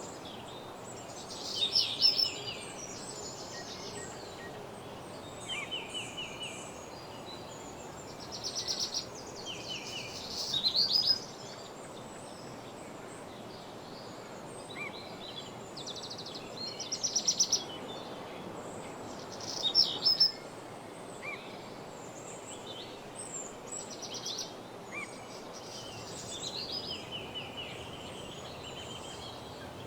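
Several songbirds singing in a woodland morning chorus: short trilled and sweeping phrases, with louder bursts of song every few seconds over a steady background hush.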